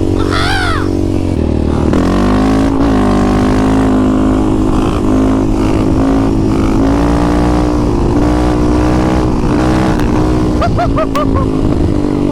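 Off-road quad or dirt bike engine running hard at high, fairly steady revs, with a brief dip and rise in pitch about two seconds in.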